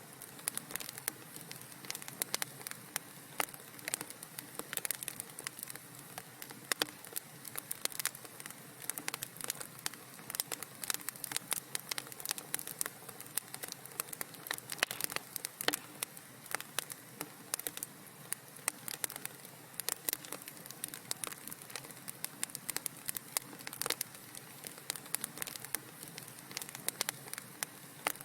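Fire in a fireplace crackling steadily, a dense run of irregular pops and clicks over a soft hiss.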